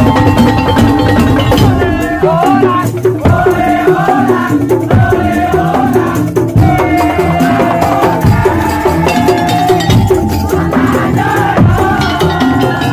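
Madurese musik tong-tong (ul daul) ensemble playing: a fast, dense rhythm of wooden slit drums and drums, with a wavering melody line above it.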